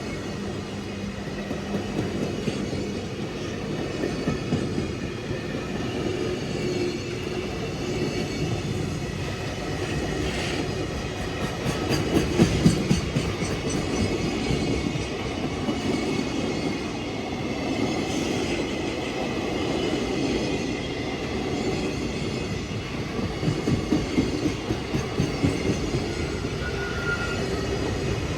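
EF66-hauled container freight train rolling past, a steady rumble of wagons with the wheels clattering over rail joints in rhythmic clusters, loudest about twelve seconds in and again near the end.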